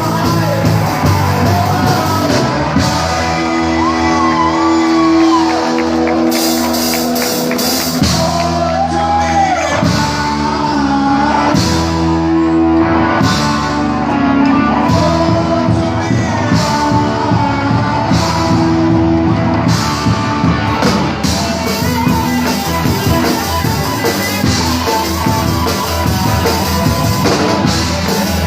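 Live rock band playing loud and steady, with drum kit, instruments and a singer shouting, in a large room; pitched lines slide up and down several times.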